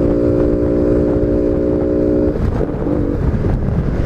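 Honda Biz 125 single-cylinder four-stroke engine running at steady revs while riding, with the loud intake note of a sports air filter. About two seconds in, the steady note breaks up into a rougher, uneven one. Wind buffets the microphone throughout.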